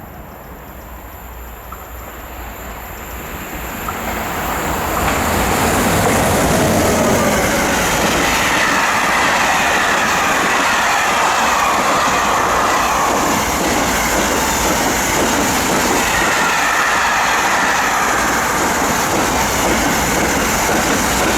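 A train approaching through the station, its noise growing steadily louder over the first six seconds. It then runs past at a steady high level, with wheels rattling over the rails and a faint wavering squeal.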